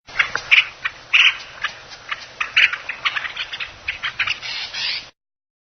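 Water in a valley stream gurgling and splashing in irregular short bursts, cutting off suddenly near the end.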